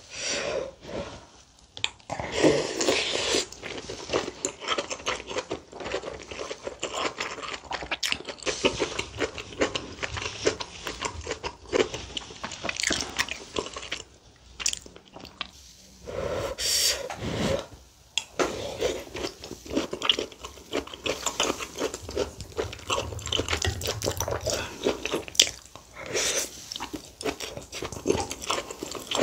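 Close-miked eating sounds: a person chewing and biting mouthfuls of saury kimchi stew with rice. Busy wet smacking with small crunches, broken by a couple of brief pauses.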